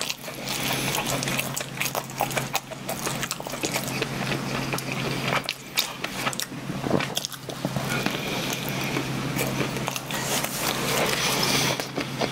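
Close-miked chewing of soft bread, with wet mouth clicks and smacking throughout.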